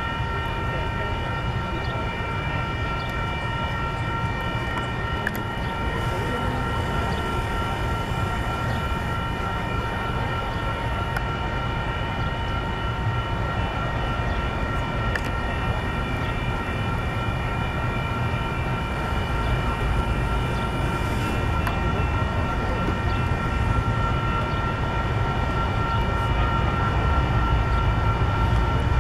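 Two Union Pacific freight trains with diesel locomotives approaching side by side on parallel tracks: a low rumble that slowly grows louder, with a set of steady high-pitched tones held over it throughout.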